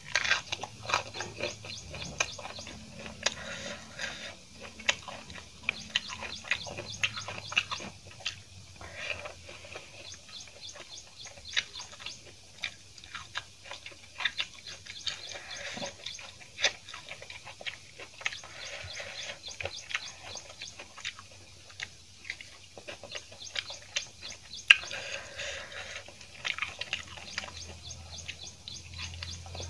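Close-miked eating sounds: chewing, crunching and wet lip smacks as a person eats rice and raw vegetables by hand, coming as many short, irregular clicks.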